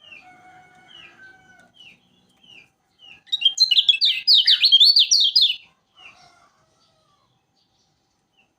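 Kecial kuning bird calling: faint short chirps, then about three seconds in a loud, rapid burst of song lasting about two seconds, followed by a couple more chirps.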